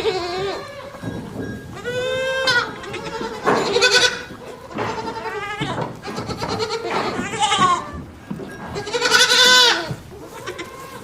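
Farm animals bleating: about six separate wavering bleats, each under a second long, coming every second or two.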